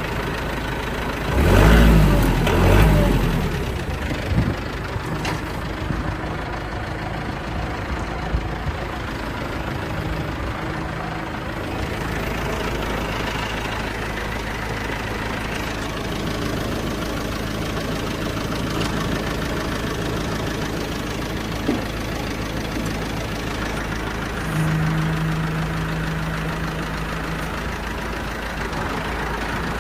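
Kubota L4802 tractor's 2.4 L diesel engine running steadily. It swells louder twice about two seconds in, and a steady low tone comes in for a few seconds near the end.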